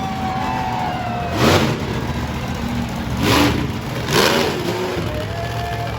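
Monster truck engine revving in three short, loud blips over a steady running rumble.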